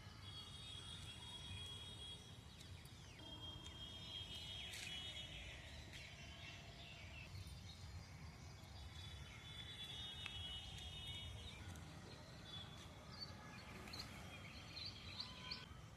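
Faint outdoor ambience of birds chirping and trilling over a low, steady rumble, with short high chirps coming more often in the last few seconds.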